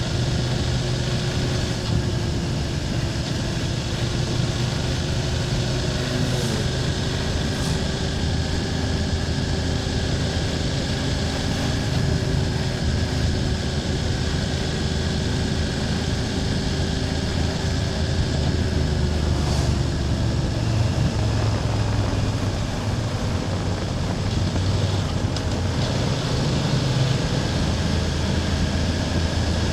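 BMW F800GS parallel-twin motorcycle engine running at a steady cruise as the bike rides along. The engine pitch eases off slightly about two-thirds of the way through.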